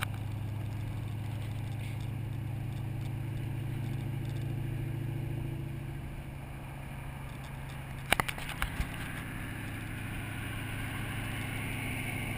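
Car engine running steadily under light load, heard from inside the cabin, easing off briefly and then picking up again near the end. There are a few sharp clicks or knocks about eight seconds in.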